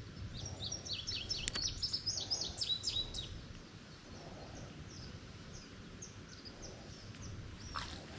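A songbird singing a fast run of short, high, down-slurred notes for about two and a half seconds, then a few scattered single notes, over a low outdoor background hiss. A single sharp click sounds about a second and a half in.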